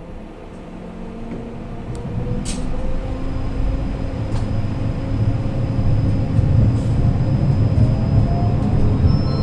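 Tram running, heard from inside the car: a low rumble of wheels on rails grows louder while the traction motors' whine rises slowly in pitch as it picks up speed. A few light clicks sound along the way.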